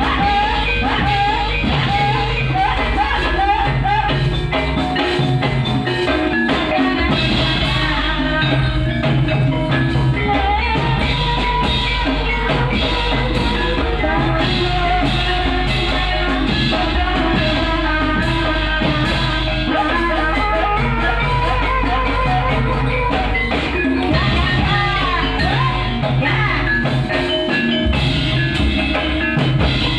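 Ebeg accompaniment music played without a break: gamelan-style tuned percussion and drums, with a singer's voice bending in pitch over them.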